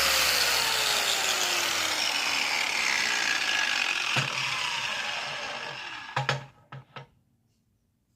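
A machine spinning down after being switched off: its whine falls steadily in pitch and the running noise fades. A sharp click comes about four seconds in, and a few more clicks near the end.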